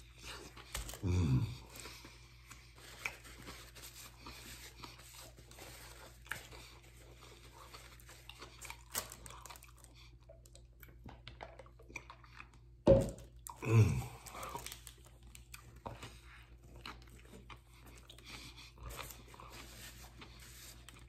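A person chewing a mouthful of vegetarian sub sandwich close to the microphone: soft crunching and wet mouth clicks. There is a short sound from the voice about a second in and a louder one about thirteen seconds in.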